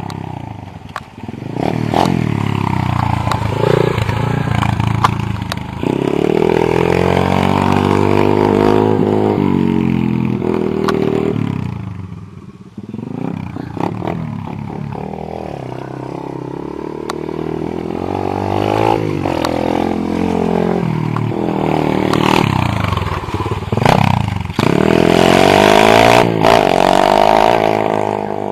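Orion AGB 37 pit bike engine revving up and easing off again and again as it is ridden, dropping nearly to idle about halfway through and revving hardest near the end, with scattered clattering knocks.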